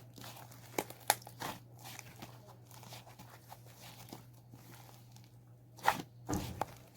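Slime being squeezed and stretched by hand, with irregular crackles, pops and tearing sounds and a louder cluster of pops near the end. A faint steady low hum runs underneath.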